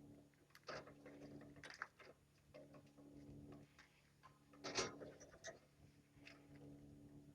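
Lovebirds pecking and husking seed: faint, scattered small clicks and crackles, with a louder crunch about five seconds in.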